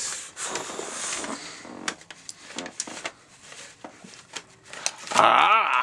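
Paper bag puppet rustling and crinkling as it is handled, with scattered clicks and taps. About five seconds in comes a short, loud, wavering vocal tone whose pitch swoops up and back down.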